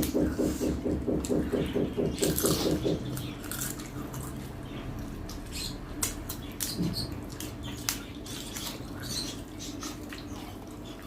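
Close-up eating sounds: chewing, lip-smacking and wet mouth clicks of people eating mutton curry and rice by hand. Under them a low hum pulses about five times a second and stops about three seconds in.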